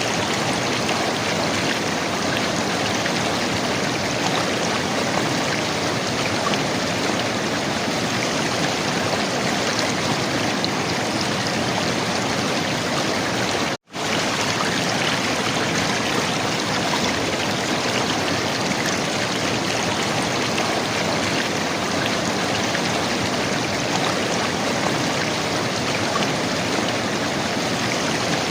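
River water flowing and gurgling in a steady, even rush. It cuts out for an instant about halfway through.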